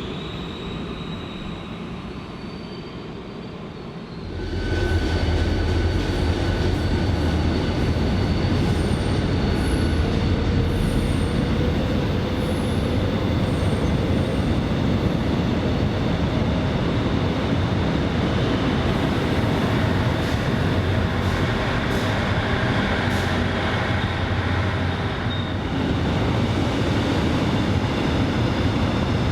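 A train running on the rails close by, getting much louder about four seconds in, with a steady rumble and short high-pitched wheel squeals now and then.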